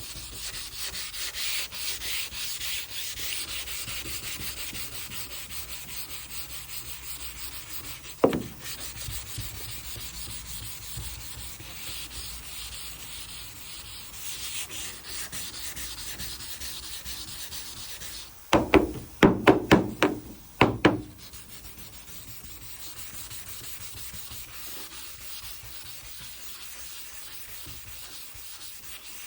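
600-grit sandpaper on a soft hand block rubbing back and forth over a primed truck body panel: blocking high-build primer straight and flat. One sharp knock about eight seconds in, and a quick run of about half a dozen loud knocks about two-thirds of the way through.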